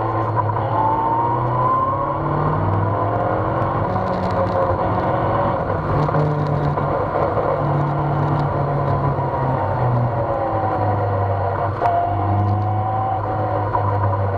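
Onboard sound of an open-cockpit lightweight sports car's engine running at speed on track. The engine note rises in the first couple of seconds, holds, then falls away slowly, with a short sharp knock near the end.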